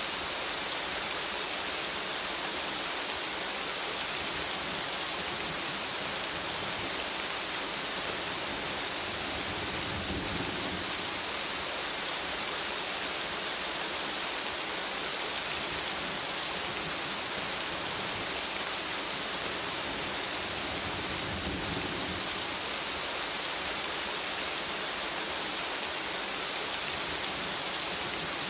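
Steady rain falling in a forest, an even hiss of drops on leaves and ground. Two brief low rumbles rise under it, about a third of the way in and again near three quarters.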